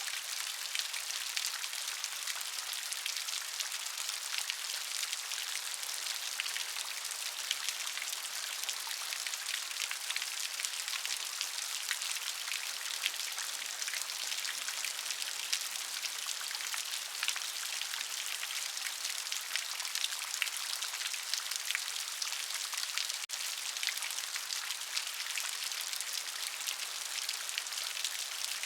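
Steady rain, with many small drops pattering close by in a constant dense hiss.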